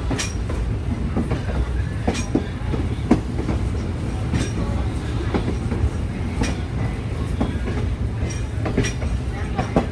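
Train running along the track, heard from an open platform on the moving train: a steady low rumble with irregular clicks and clanks of the wheels over rail joints.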